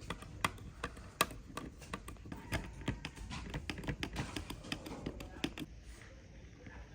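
Quick, irregular taps and clicks, several a second, that stop about six seconds in.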